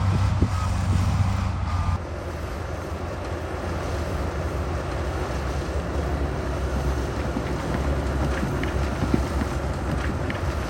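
Heavy diesel earthmoving equipment engine running with a steady low rumble. About two seconds in the level drops suddenly and the sound turns rougher, with a few faint knocks near the end.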